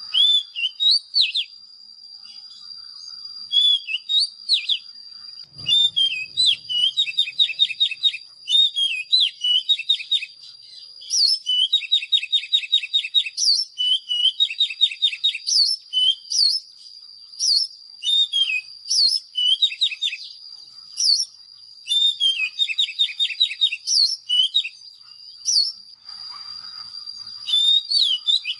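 Oriental magpie-robin singing: loud whistled phrases broken by fast trills of rapidly repeated notes, phrase after phrase with short gaps. A steady high-pitched tone runs underneath.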